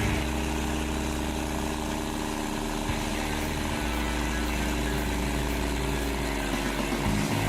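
Engine of a heavy forestry machine running steadily, with a low hum that shifts slightly in pitch partway through.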